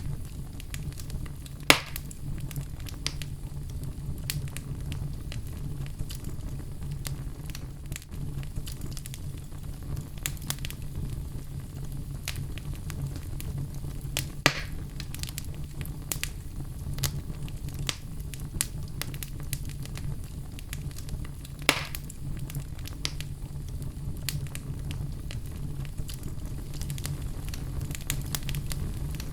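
Wood fire burning in a fireplace: a steady low rumble under frequent small crackles, with three louder pops, about two seconds in, halfway through and about three-quarters of the way through.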